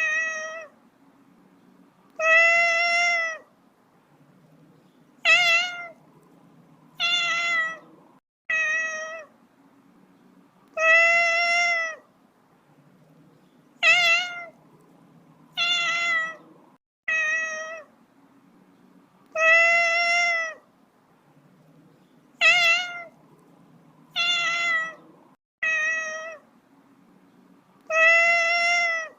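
A domestic cat meowing again and again, about fourteen meows, some drawn out for about a second and others short, one to three seconds apart, with a faint low hum between them.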